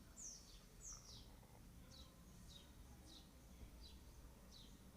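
A small bird chirping faintly and repeatedly, each chirp a quick falling note, over a low steady background hum.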